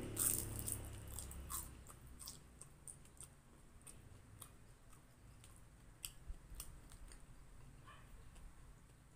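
A person biting and chewing crispy fried lumpia (spring rolls), with scattered sharp crunches, the loudest just after the start.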